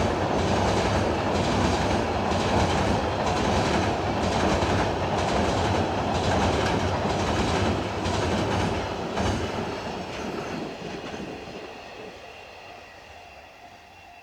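Freight train wagons rolling past, the wheels clacking over rail joints in a steady rhythm. After about nine seconds the end of the train passes and the rolling sound fades away.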